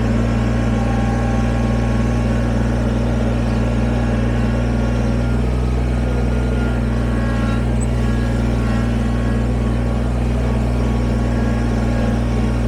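Kubota BX23S sub-compact tractor's three-cylinder diesel engine running at a steady, even speed.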